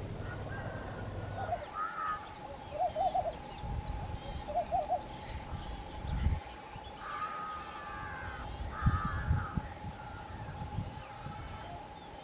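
Birds calling: a scatter of short repeated calls, some in quick little clusters, over a faint steady high tone.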